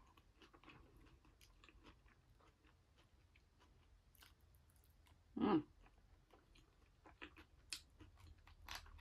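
Faint close-up chewing and mouth sounds of a person eating curry and rice, with scattered light clicks. About five and a half seconds in comes a short vocal hum as the next spoonful goes into the mouth.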